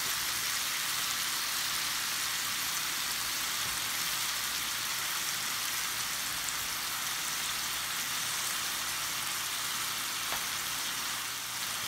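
Steady sizzle of sliced pheasant back (dryad's saddle) mushrooms frying in butter and peanut oil in a hot cast-iron skillet over high heat, the watery mushrooms starting to give up their liquid.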